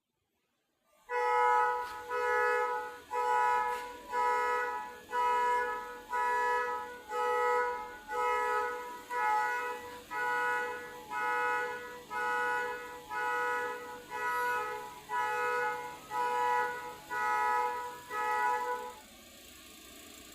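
A pitched electronic tone repeating about once a second, roughly eighteen identical pulses that each swell and fade, stopping suddenly near the end.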